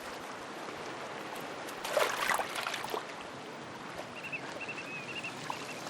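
Seawater washing on a rocky shore: a steady wash with a louder splash about two seconds in, and a few faint high chirps near the end.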